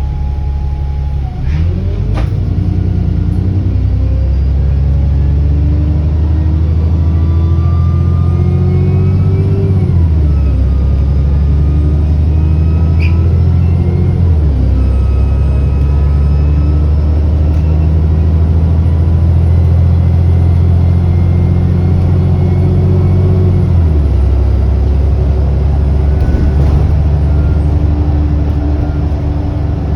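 Alexander Dennis Enviro400 double-decker bus engine accelerating through its automatic gearbox, the revs climbing and then dropping at gear changes about ten, fourteen and twenty-four seconds in. Over it runs a faint high turbo whine that rises and falls with the engine.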